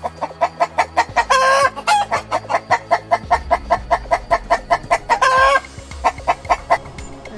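Chickens clucking in a fast, even run of about five clucks a second, twice broken by a longer drawn-out call, about a second in and again about five seconds in. The clucking stops shortly before the end.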